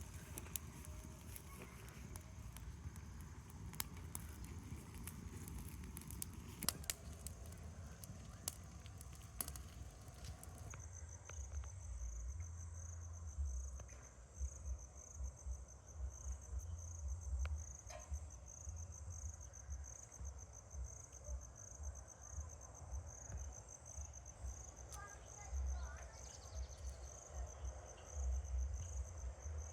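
Scattered clicks and crackles over a noisy background, then, about eleven seconds in, a steady high pulsing chirring of insects takes over, with low wind rumble buffeting the microphone.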